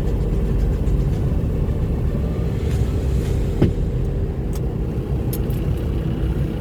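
Semi truck's diesel engine running with a steady low rumble, with one brief sharp sound about halfway through.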